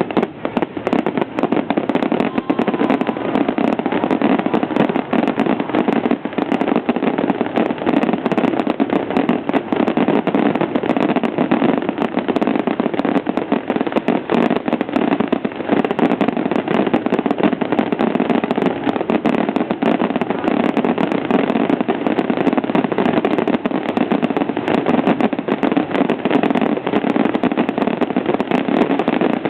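Fireworks display in a dense, unbroken barrage: many bursts and crackles following one another closely without a pause.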